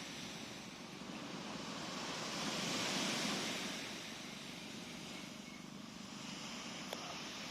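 Gentle sea waves washing in, the surf swelling about three seconds in and easing off again. A faint click comes near the end.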